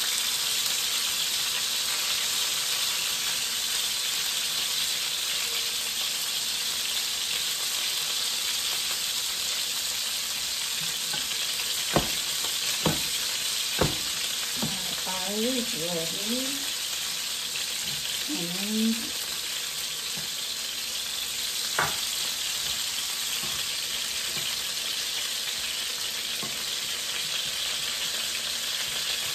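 Cod fillets sizzling steadily as they pan-fry in hot fat in a nonstick frying pan, with a few sharp clicks near the middle.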